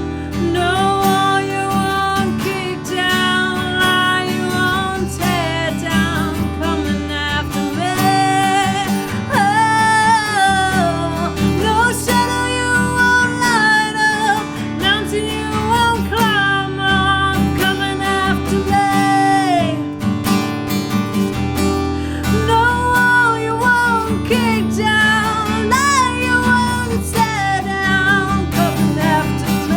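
Acoustic guitar strummed steadily, with a melody line above it that slides and bends in pitch, in a passage between the sung verses of a worship song.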